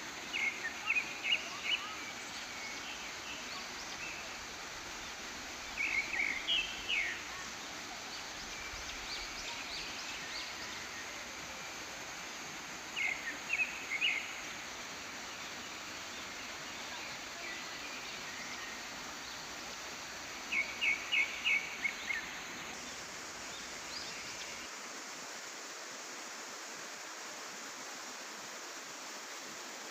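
Steady rush of water from a jungle waterfall and stream. Over it, a bird calls in four bouts of quick, high, repeated notes, about every seven seconds.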